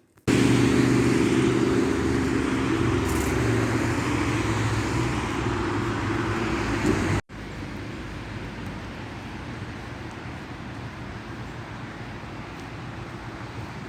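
Steady motor-vehicle and road noise with a low engine hum. About seven seconds in it cuts to a quieter, even hiss of distant traffic.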